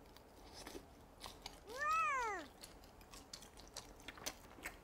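Crisp bites and chewing of a fried rice-cake skewer (tteokkochi) glazed in sauce, heard as a run of small crunchy clicks. About two seconds in, a short high-pitched call rises and then falls; it is the loudest sound.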